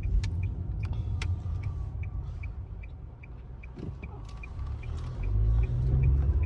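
Car heard from inside the cabin on the move: a low engine and road rumble that swells about five seconds in, with a light, even ticking about two and a half times a second.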